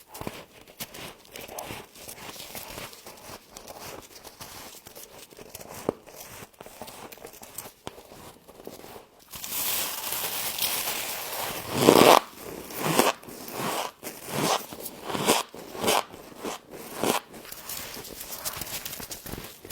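Close-up biting and chewing of crunchy frost: soft crackling at first, then a rustling rush about halfway through, followed by a string of loud crunches roughly once a second.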